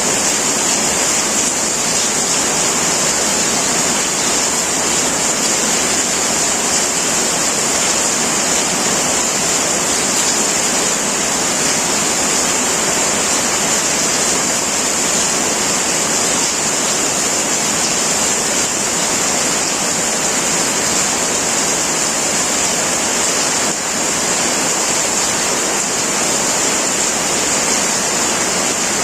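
Heavy rain pouring on a tin roof, a dense, steady hiss that does not let up.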